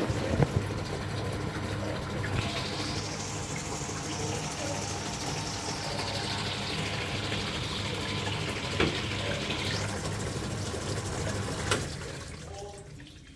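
Water rushing through a washing machine, with a steady low hum underneath and a few light clicks; it dies away about twelve seconds in.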